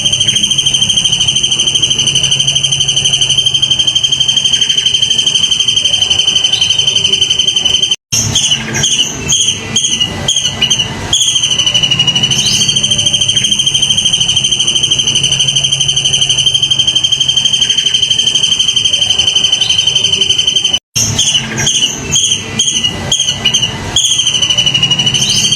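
Edited birdsong training recording: a steady, high insect trill runs on and on. Twice it breaks off suddenly into about three seconds of quick, falling bird chirps, and then the trill comes back.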